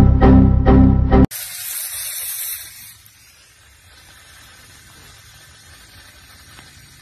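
Loud pulsing music cuts off about a second in and gives way to a loud, high hiss that drops to a faint steady hiss after a couple of seconds.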